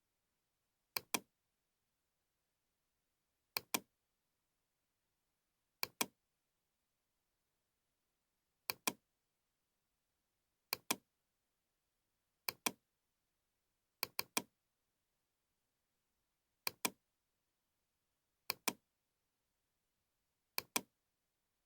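Computer mouse double-clicking: about ten sharp pairs of clicks, roughly one pair every two seconds, with one quick triple click midway, and near silence in between.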